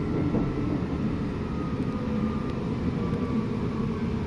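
Steady running noise inside a Queensland Rail SMU electric multiple-unit train in motion: a low rumble with a faint steady whine over it.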